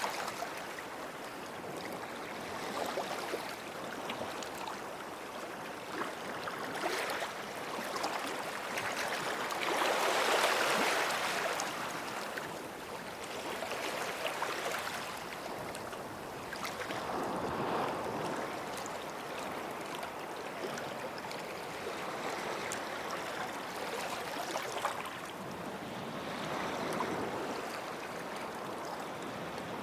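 Small sea waves washing in at the shoreline, each wash swelling and fading away, the biggest about ten seconds in.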